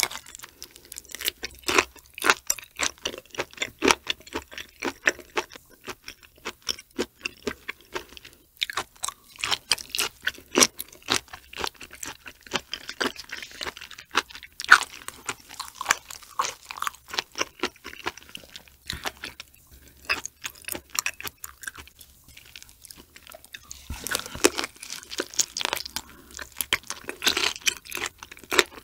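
Close-miked chewing of raw shrimp: a fast, irregular run of mouth clicks and smacks.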